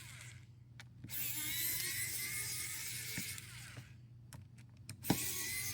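Small electric precision screwdriver whirring as it backs out a phone's screws. It runs in two spells with a pause between, where a few small clicks are heard, and a sharp click comes as it starts again near the end.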